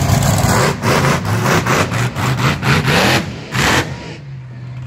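Monster truck engine revving hard in a quick run of throttle bursts, then settling into a steadier held note about four seconds in.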